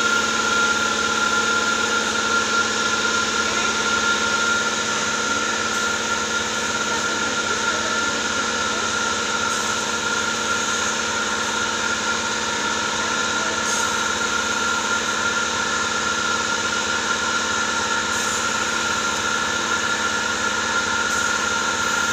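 Steady drone of a running motor or engine: a constant hum with a strong whine over an even hiss, holding the same speed throughout.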